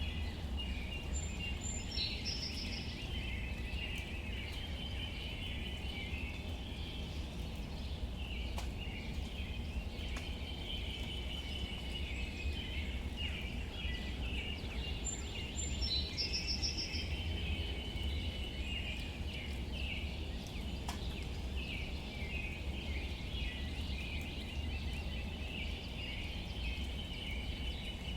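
Light rain falling on leaves, with scattered faint drops over a steady low rumble and a constant high chirping chorus. A short high bird call sounds twice, about two seconds in and again about sixteen seconds in.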